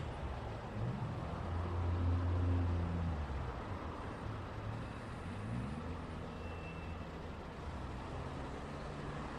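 Road traffic: a steady hiss of passing vehicles, with engines pulling away and rising in pitch about a second in and again about six seconds in. A deep engine note is loudest about two to three seconds in.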